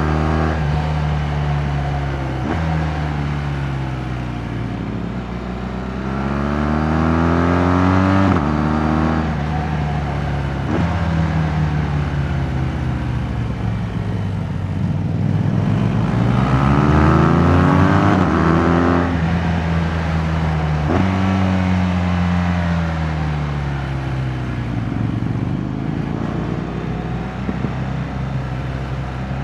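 Water-cooled boxer twin of a BMW R 1200 GS Adventure under way. It rises in pitch as the bike accelerates and drops sharply at gear changes several times, then winds down as the bike slows and builds up again near the end. Wind and road noise run underneath.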